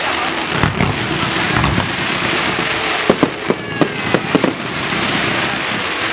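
Aerial fireworks display: a dense, continuous crackling, with a quick run of sharp bangs about three seconds in.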